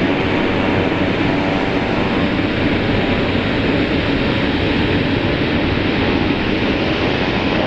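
Basler BT-67's twin Pratt & Whitney Canada PT6A-67R turboprop engines running steadily while the aircraft taxis, a loud even rush of engine and propeller noise carrying a cluster of steady whining tones.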